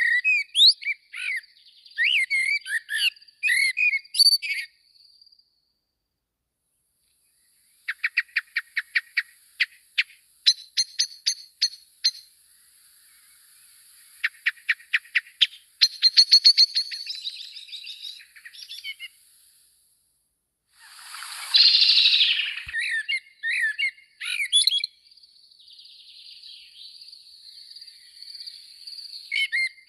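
Small songbirds chirping and twittering in bouts, with a quick run of evenly repeated chirps and a brief louder, noisier burst about two-thirds of the way through.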